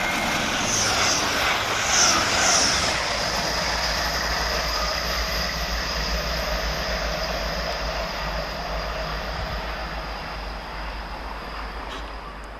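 Grand Central Class 180 diesel multiple unit passing through the station at speed, a steady rumble and rush of wheels on rail with brief high squeals in the first few seconds, then slowly fading as it moves away.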